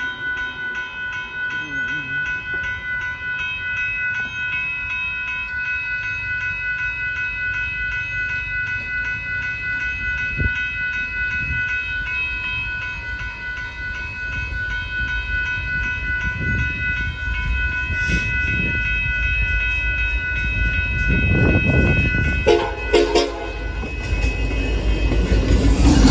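Union Pacific locomotives running light approach and pass a road crossing, their diesel rumble growing louder toward the end. A steady high ringing tone runs until about 22 seconds in. A short horn sound comes just after.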